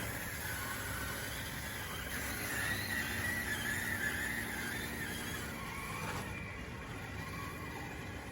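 DXR2 RC bulldozer's electric drive whining, its pitch wavering up and down as it works under load, over a steady low hum; the high hiss drops away about six seconds in.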